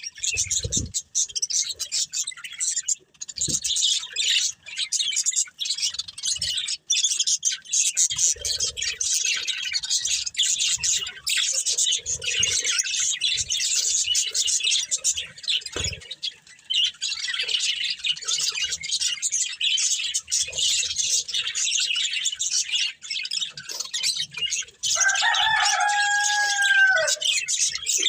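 Budgerigars chirping and warbling in a constant, busy chatter of quick high notes. Near the end, one longer, lower call is held for about two seconds and drops in pitch as it ends.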